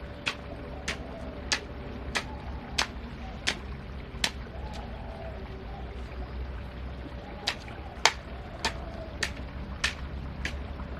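Sharp knocks repeating at an even pace, about three every two seconds, with a pause of a couple of seconds in the middle, over a steady low rumble and a faint hum.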